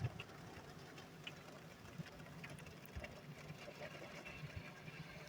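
Faint light rain pattering as scattered small ticks over a low steady hum.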